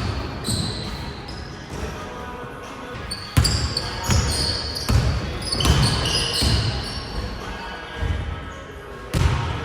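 Basketball bouncing on a gym floor during a dribbling and finishing drill, an irregular run of heavy thumps about a second apart, with short high squeaks in between.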